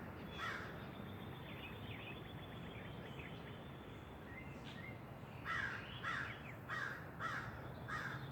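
Crows cawing: one caw about half a second in, fainter calls after it, then a run of about six caws, roughly two a second, through the second half.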